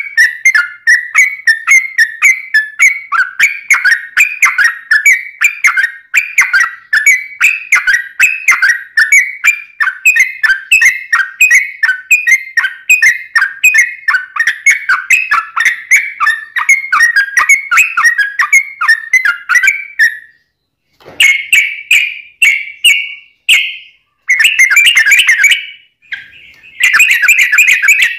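Yellow-vented bulbul (trucuk) singing a long, fast run of bubbling phrases without a pause for about twenty seconds. A brief break follows, then the song carries on in shorter bursts with gaps between them.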